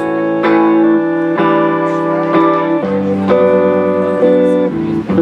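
Live band music: an instrumental passage led by electric guitar chords, with notes struck and changing about once a second.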